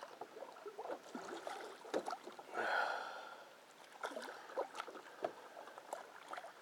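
Water lapping and splashing against a small boat's hull, with scattered light knocks, and a heavy breath from the angler about two and a half seconds in.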